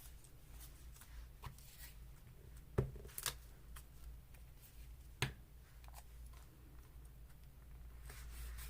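Quiet handling of paper pieces: soft rustling with a few short, sharp clicks or taps, the clearest ones about three seconds in and again about five seconds in.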